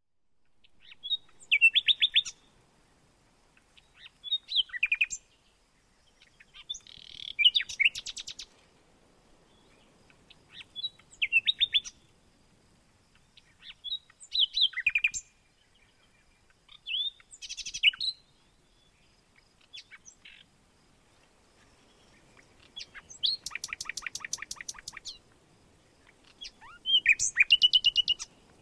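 A songbird singing short phrases of rapid, repeated chirping notes, one phrase about every three seconds, with a longer trill near the end.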